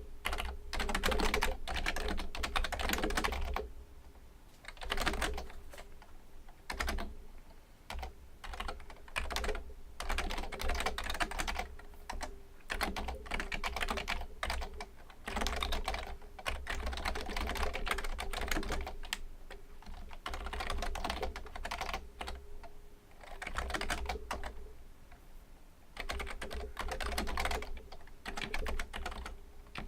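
Continuous typing on a Fujitsu Component Libertouch premium membrane keyboard: rapid runs of keystrokes in bursts of a few seconds, separated by short pauses.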